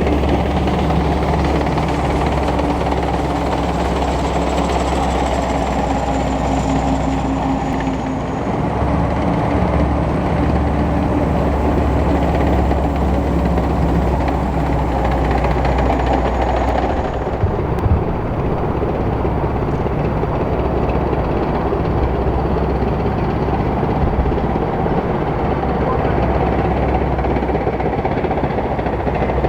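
Type 10 main battle tanks driving past on a paved road: the diesel engine running and the steel tracks clattering, with a faint high whine in the first half that fades about seventeen seconds in.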